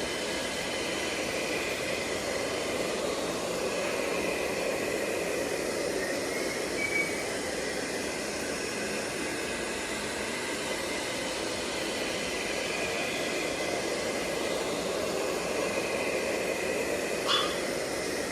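ILIFE V5s Max robot vacuum running in spot-cleaning mode: a steady suction-motor and brush noise with a faint high whine. There is a sharp click about a second before the end.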